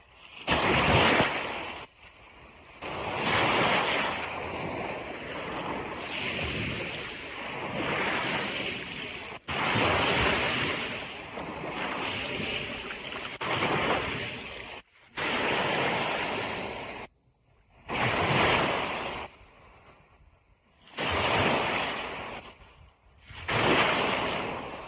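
Ocean waves breaking and washing up a beach, surging in every few seconds and falling back; several surges cut off abruptly.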